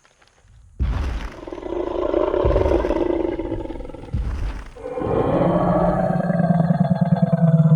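Dinosaur (T. rex) roar sound effect. About a second in comes a long, rough roar with a couple of low thuds inside it. Just before five seconds a second, deeper roar starts with a steady low pitch and runs on past the end.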